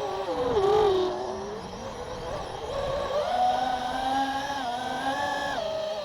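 A vehicle's motor running hard on a quick run, its pitch dipping about half a second in, climbing again around three seconds and dropping back near the end as the speed changes.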